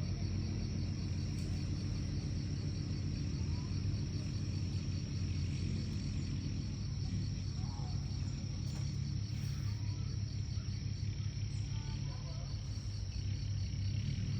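Crickets chirping in a steady, evenly pulsing high trill over a low, steady rumble, with a few faint short calls.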